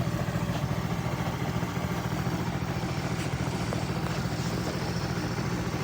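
A small engine running steadily with a low, even throb.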